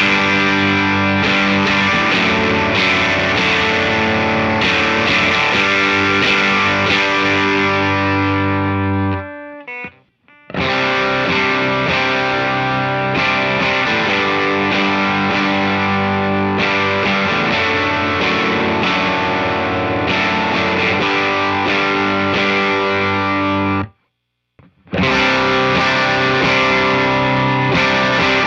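Electric guitar played through a JHS Kilt overdrive pedal with its G1 gain switch on, into a Walrus Audio ACS1 amp simulator, playing distorted riffs. The playing stops twice, about ten seconds in and again near the end, each time for a moment of silence before the same riff starts again.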